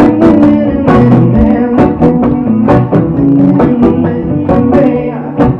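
Instrumental passage of a live reggae-folk song: a strummed guitar playing chords in a regular rhythm, with a band behind it.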